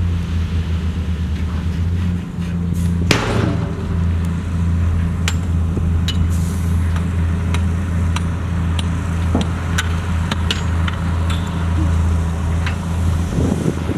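Heavy diesel engine of earth-moving equipment running steadily, with a loud metallic bang about three seconds in and scattered clanks and knocks after.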